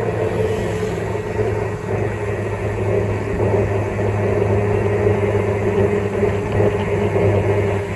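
A motorbike running at a steady speed under way: a constant low engine hum with a steady higher drone and road noise.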